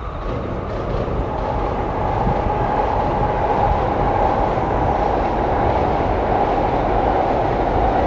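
Tokaido Shinkansen train running past, its rolling noise growing louder over the first couple of seconds and then holding steady.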